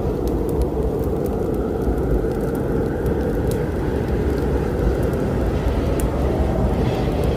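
Wood fire crackling, with scattered sharp pops over a steady low storm rumble.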